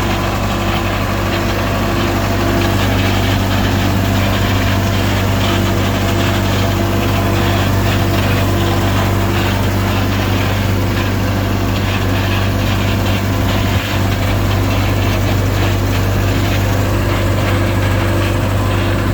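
Bobcat 853H skid steer loader's diesel engine running steadily at an even speed, with no revving.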